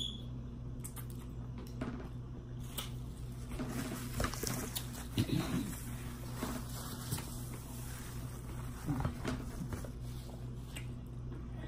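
A person eating king crab meat: chewing and soft mouth noises, with a few light clicks from handling the crab and a couple of brief hums about five and nine seconds in, over a steady low hum.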